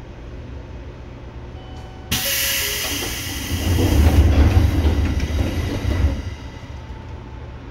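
Seibu 2000 series electric train running, heard from inside the car. About two seconds in, a sudden loud rushing hiss sets in, then heavier low rumble for a couple of seconds before the sound settles back to the steady running noise.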